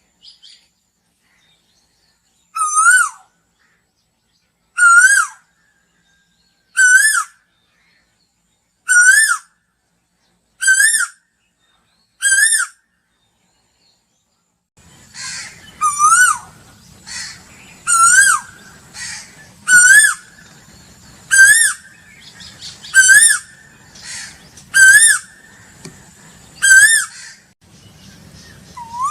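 Asian koel calling: a series of loud, repeated single notes, each rising then dropping, about one every two seconds. After a short pause the calls go on over a background hum and a steady high whine, with softer notes between them.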